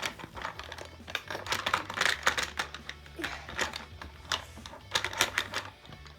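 Irregular rapid clicking and clattering of plastic toys, small hard parts knocking and tapping against each other.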